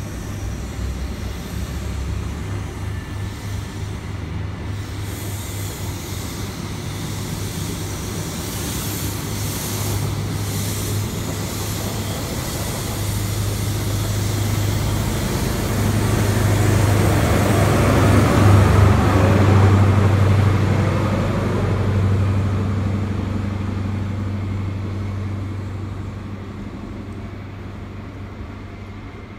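LNER intercity train running past: a low steady hum with rumbling wheel and rail noise. It swells to its loudest a little past halfway, then fades as the train pulls away.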